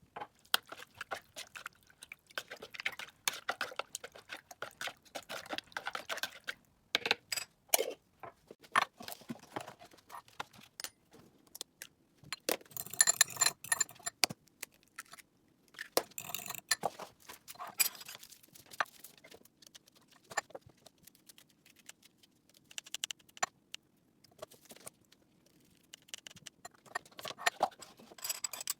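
Kitchen prep handling: irregular clinks, taps and clatter of spoons, bottles and a bowl as a soy-sauce marinade is mixed over chicken, busiest about halfway through.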